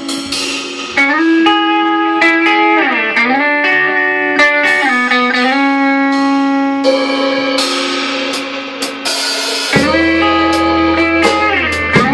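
Live band music: a guitar holds long notes that slide down and back up in pitch several times. A low bass comes in near the end.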